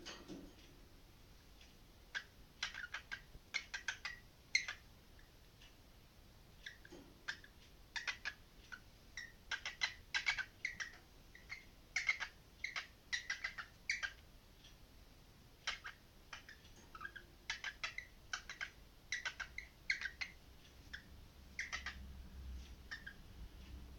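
Parrot making many short, sharp chirps in irregular runs, with a few brief pauses between. A low rumble comes in near the end.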